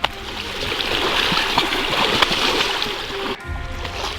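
Floodwater splashing and sloshing as cattle wade through it, a steady noisy wash with a brief dip about three seconds in, over quiet background music.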